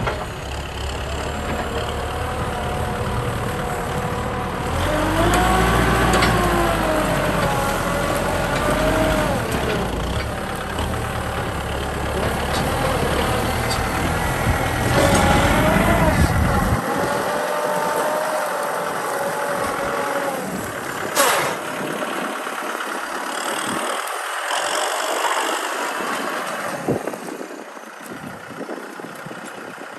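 Kubota M6040 tractor's diesel engine running under load, its pitch rising and falling as it works. About halfway through, the deep low rumble drops away and the engine sound turns thinner.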